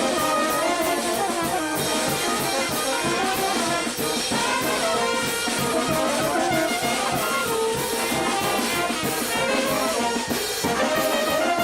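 A brass band playing: trumpets and trombones carrying the melody over drums with a steady beat.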